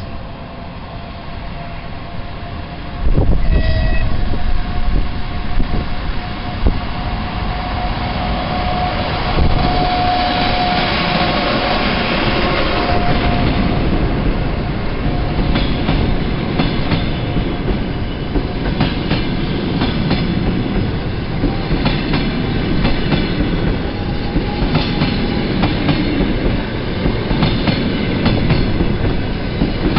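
ChS4T AC electric locomotive and its passenger coaches pulling away and rolling past, getting loud about 3 s in, with a steady whine through the first half. The wheels then knock regularly over the rail joints, clickety-clack.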